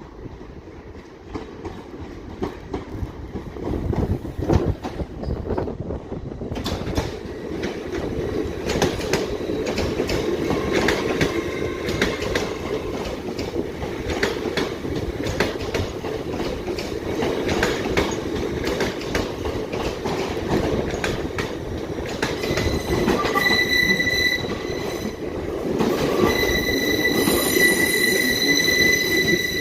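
A train's wheels running over the rail joints, growing steadily louder with rapid clicks. From about 23 s in a high, steady wheel squeal from the flanges on curved track joins in, breaks off briefly, then resumes.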